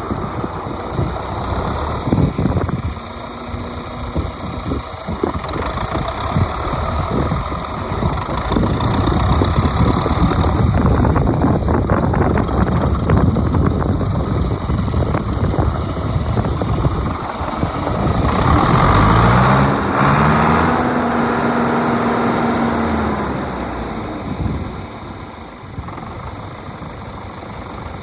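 1972 John Deere 3020's four-cylinder diesel engine running, revved up about two-thirds of the way through, held for a few seconds, then let back down toward idle.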